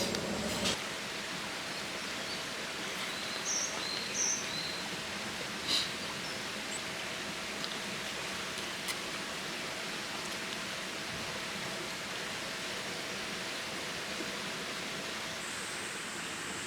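Steady rushing of a flowing stream, with a few faint, short bird chirps about four seconds in.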